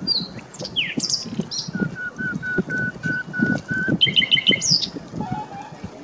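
Several birds calling and singing: a run of about eight short, even whistled notes, then a quick burst of rapid higher notes, with scattered brief chirps around them.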